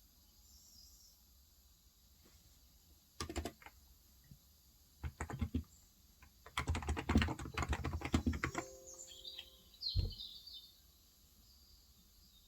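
Typing on a Cox Endeavor electrostatic capacitive tenkeyless keyboard with 35 g switches: a few keystrokes about three seconds in, another short run around five seconds, a fast run of keystrokes from about six and a half to eight and a half seconds, and one louder stroke near ten seconds. Birds chirp faintly in the background, most around the end of the typing.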